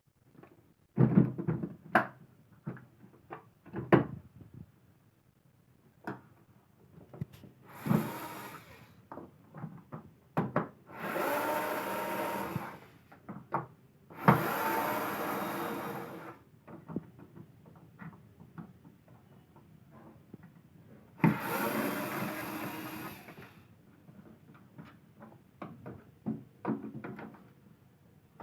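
Plastic clicks, knocks and rattles of a vacuum cleaner's casing and parts being handled and taken apart, broken by four short runs of a small motor whirring, each a second or two long.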